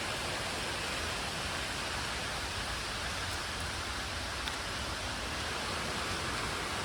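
Steady, even hiss of rain and falling water in the jungle, with no change in level.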